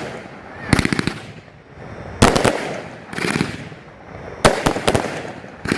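A 30-shot fireworks finale cake firing: clusters of sharp bangs about every second and a half, each trailing off in a crackling fizz from the glitter-tail effects.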